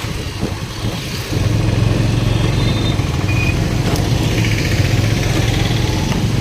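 A road vehicle's engine running steadily under way, its hum growing louder about a second in, with a couple of short high beeps in the traffic.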